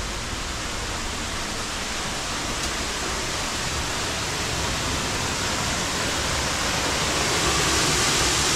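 Upper Düden Falls waterfall heard from inside the cave under it: a steady, loud rush of falling water that grows louder over the last couple of seconds.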